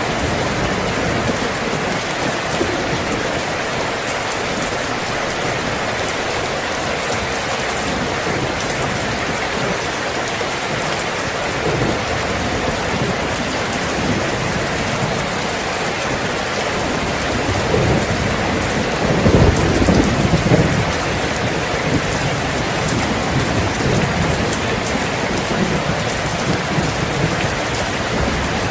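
Steady rain falling, an even hiss throughout. A low rumble of thunder swells and rolls through about two-thirds of the way in, the loudest moment, then fades back under the rain.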